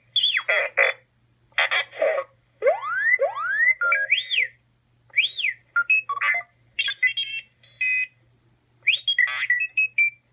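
Droid Depot R-series astromech droid toy playing its stock electronic beeps and whistles through its speaker, the standard sounds without a personality chip. Short phrases of rising whistles, rapid beep trills and warbling chirps come one after another with brief pauses between them.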